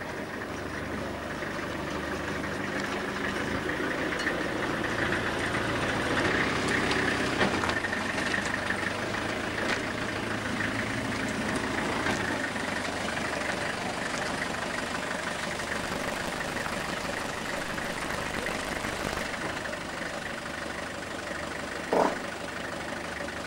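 An engine running steadily at idle, with a single sharp knock near the end.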